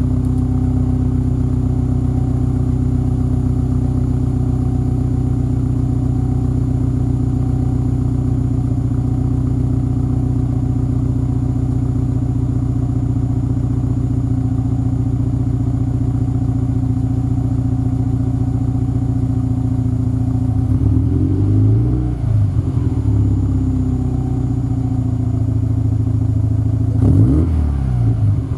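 Subaru WRX STI (VAB) turbocharged EJ20 flat-four engine idling steadily through an STI Performance Muffler. It is revved twice: a rise and fall in pitch about three-quarters of the way through, and a shorter, sharper blip near the end.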